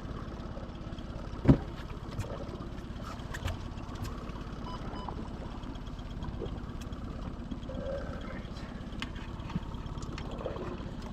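Boat's outboard motor idling steadily, with water splashing against the hull. A single sharp knock about a second and a half in, with a few lighter clicks after it.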